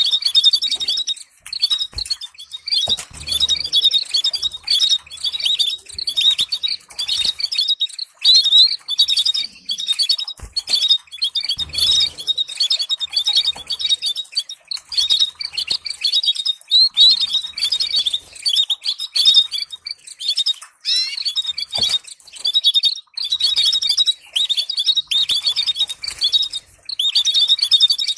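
Canary singing a fast, continuous song of chirps and rolling trills, the kind of song played to stimulate and train other canaries to sing.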